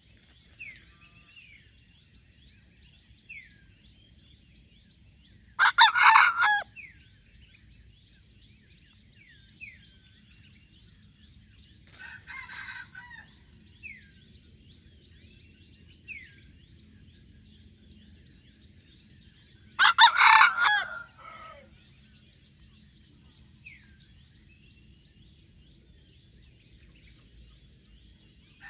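A rooster crowing: two loud, short crows about 14 seconds apart, with a fainter crow between them. Throughout there is a steady high-pitched drone and scattered short falling chirps from small birds.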